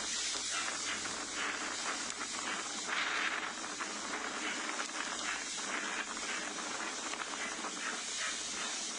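A swollen river's floodwater rushing: a steady, dense hiss of fast water that swells and eases a little.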